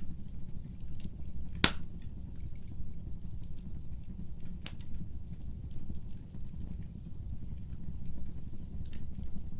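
Fire burning in a fireplace: a steady low rumble of flames with scattered small crackles. A sharp pop comes about one and a half seconds in, the loudest sound here, and a softer pop comes near five seconds in.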